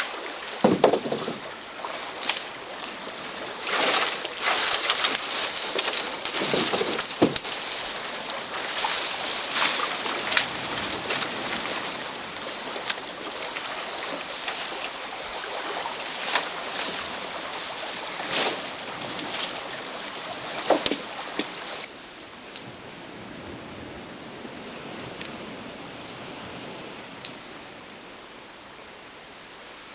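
Moving water sloshing and splashing, with irregular sharper splashes over a steady rush. About two-thirds of the way through, it drops to a quieter, steadier wash.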